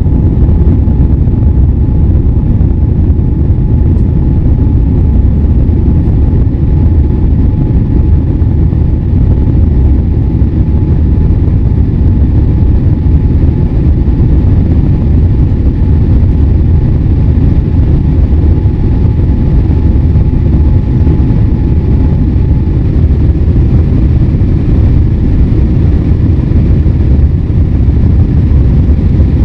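Loud, steady cabin noise inside a Boeing 787-8 Dreamliner climbing after take-off: the rumble of the engines and airflow, heaviest in the low end. A faint steady tone runs under it and stops about three quarters of the way through.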